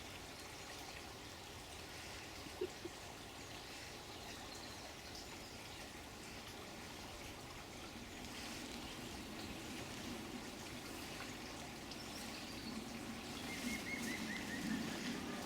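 Water trickling and running steadily, a little louder in the second half. A bird chirps briefly near the end.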